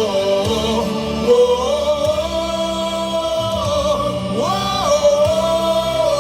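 Baseball cheer song playing loud with a crowd singing along, a held melody that steps between notes.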